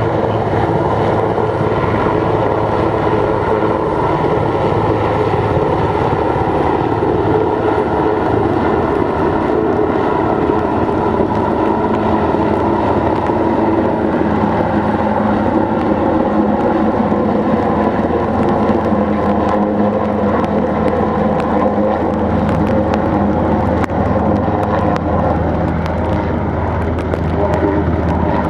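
Airbus H215 Super Puma twin-engine helicopter running steadily, its turbine and rotor sound loud and continuous, with some tones drifting slowly down in pitch partway through.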